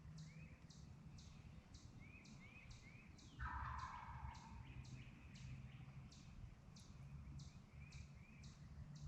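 Quiet woodland with small birds chirping: a high chirp repeating about twice a second and a few short rising notes. A louder burst lasting under a second comes about three and a half seconds in.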